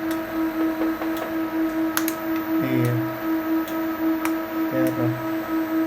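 Steady, rapidly pulsing electrical hum from an energized servo motor and amplifier on a test bench, with scattered sharp clicks.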